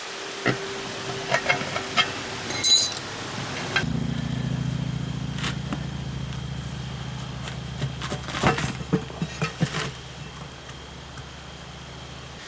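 Metal pry tools clinking and knocking against a steel wheel rim as a lawn tractor tire is levered onto it, in scattered taps and scrapes. A steady low hum comes in about four seconds in.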